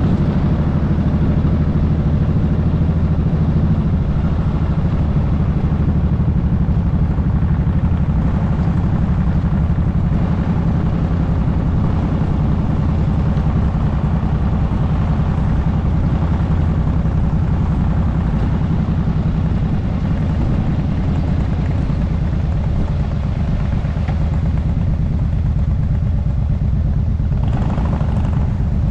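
Motorcycle engine running steadily at an even cruising speed while riding, with road and wind noise. A brief swell of noise near the end.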